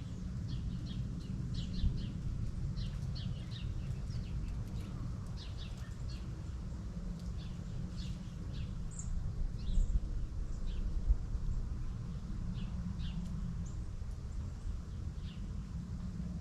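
Small birds chirping outdoors, many short, quick calls scattered throughout, over a steady low rumble with a couple of brief louder thumps.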